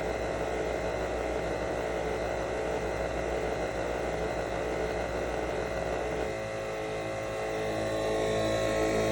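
Nespresso Vertuo Pop+ capsule machine running through a brew cycle: a steady motor whir and hum with a held tone. About six seconds in, the pitch and the low hum shift.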